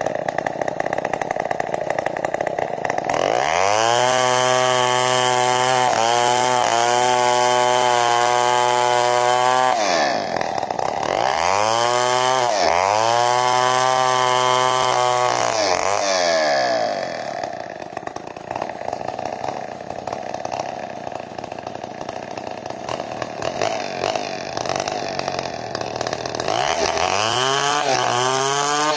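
Large 070-class two-stroke chainsaw ripping timber into beams. It revs up to full throttle and holds there for several seconds, drops back briefly, revs and holds again, then falls to a low idle for several seconds before revving up again near the end.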